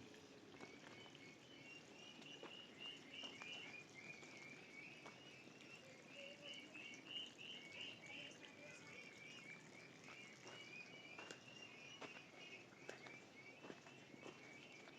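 Faint chirping of small birds, going on without a break, with a few scattered light clicks and knocks.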